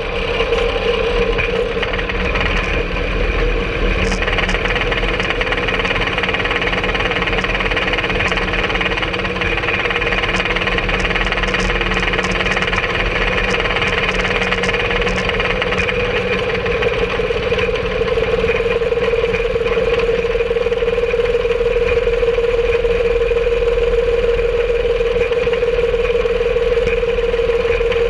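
Engine of a home-made rail cart (speeder) running steadily with a constant whine as the cart rolls along the track, getting slightly louder about two-thirds of the way through.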